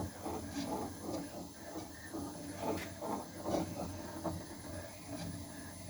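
Head-machining tool running while a cutter chamfers the top edge of a valve guide in an Oldsmobile V8 cylinder head: uneven scraping cuts over a steady high whine, with a couple of sharp clicks midway.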